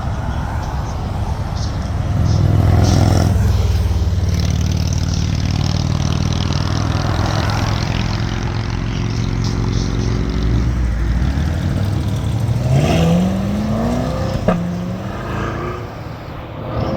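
Car engine running at a steady low speed, then revving up twice near the end, its pitch rising each time.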